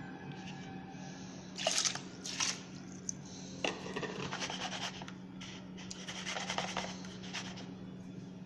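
Kitchen items scraping and rubbing in irregular strokes, over a steady low hum.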